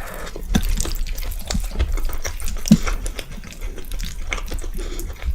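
Close-miked wet chewing and mouth sounds of a person eating, with irregular smacks and clicks.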